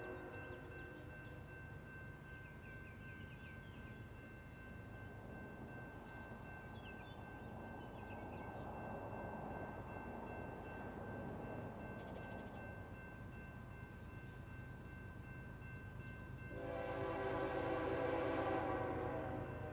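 BNSF freight locomotive horn sounding from a distance: one blast ends about a second in, the low rumble of the train rises and falls in between, and a second long blast starts suddenly near the end.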